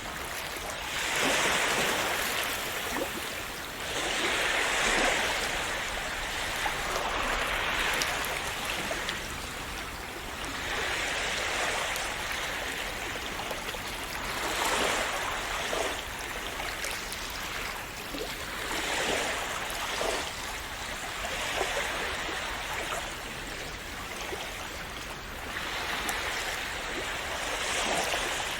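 Calm sea waves breaking and washing up on a shore, each wash swelling and falling back every three to four seconds.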